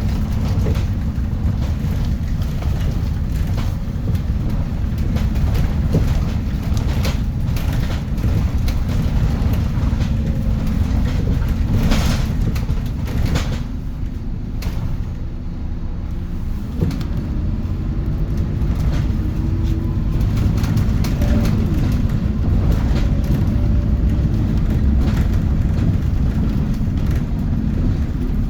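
Scania K230UB city bus heard from inside the cabin while driving: a steady low diesel engine rumble with scattered rattles and knocks. The engine goes quieter for a moment about halfway through, then its pitch rises as the bus pulls away again.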